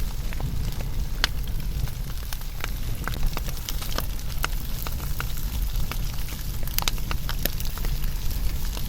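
Wood fire burning, with frequent irregular crackles and sharp pops over a steady low rumble of the flames.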